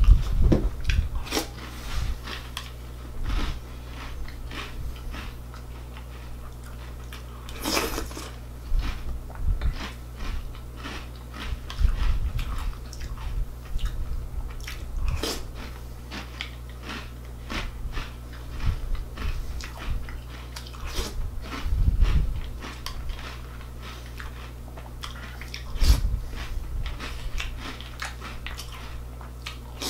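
Close chewing and crunching of a mouthful of Reese's Puffs cereal: irregular clusters of sharp crunches with short pauses between bites.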